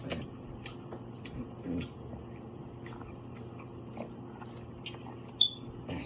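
Close-miked eating of seafood: scattered soft clicks and smacks of chewing and biting, with a sharper click about five and a half seconds in.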